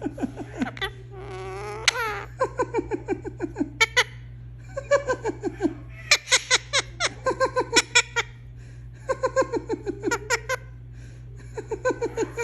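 Indian ringneck parakeet mimicking human laughter: several bouts of quick, repeated 'ha-ha-ha' notes, each note dropping in pitch, with a wavering call about a second in.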